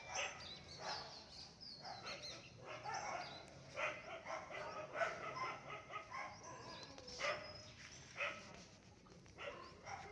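A dog barking repeatedly at irregular intervals, with small birds chirping.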